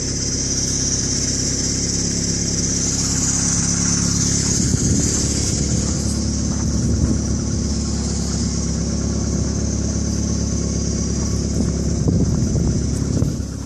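An engine running steadily with a constant low hum and a steady high hiss, mixed with storm wind.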